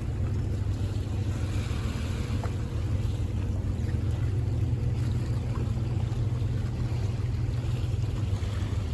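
A boat's engine running with a steady low drone, with some wind on the microphone.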